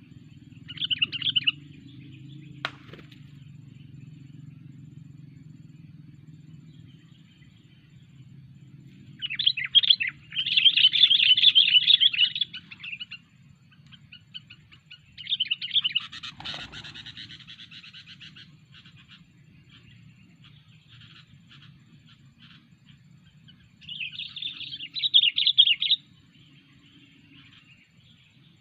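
Sooty-headed bulbul (kutilang) giving bursts of rapid, harsh chattering chirps. There is a short burst about a second in, the loudest and longest around ten to thirteen seconds in, another around sixteen seconds, and one more near twenty-five seconds, with scattered faint chirps between.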